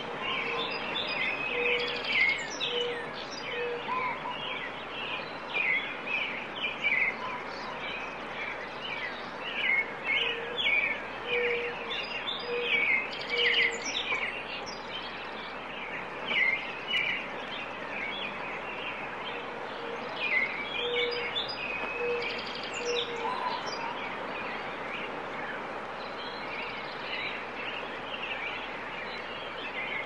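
Several songbirds chirping and trilling over a steady background hiss. A low series of four or five short, evenly spaced notes recurs about every nine seconds. The chirping thins out over the last few seconds.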